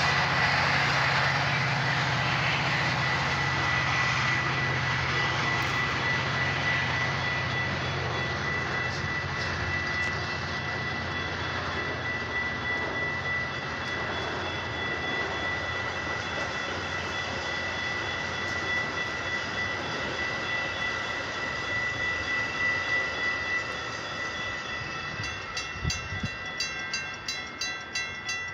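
Metra bilevel commuter train cars rolling past at a grade crossing: a steady rumble and rush that slowly fades, with a steady high tone running through it. Near the end, as the train clears, the crossing bell's rapid dinging, about two to three strikes a second, comes through.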